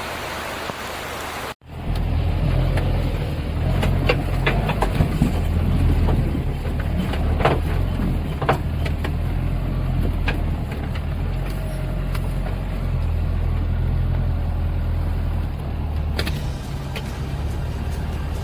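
Offroad 4x4 vehicle engine running with a steady low drone, with scattered knocks and clicks over it; it begins abruptly about a second and a half in, after a short stretch of hiss.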